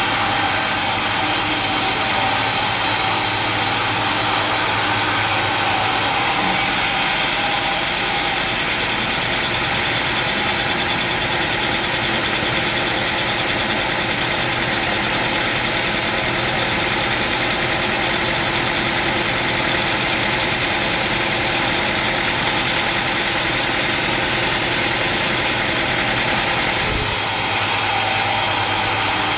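Sawmill machinery running steadily: a continuous motor hum under a wash of noise. The highest hiss drops off abruptly about six seconds in and comes back near the end.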